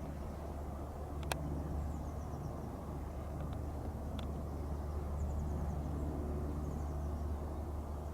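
Steady low rumble and hum of jet airliner engines heard at a distance, with a few faint bird chirps over it.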